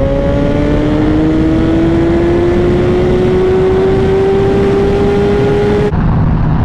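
2012 Honda CBR1000RR's inline-four engine pulling under load, its note rising slowly and steadily as the bike accelerates, over heavy wind rush. About six seconds in, the note drops suddenly to a lower, steady pitch.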